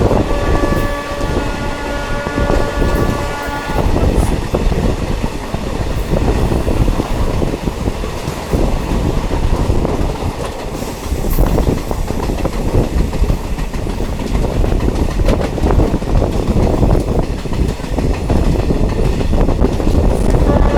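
Diesel multiple unit train running along the track, heard from on board: a steady rumble with rattling and clicking of the wheels over the rails. A steady multi-note tone sounds for the first four seconds or so, then stops.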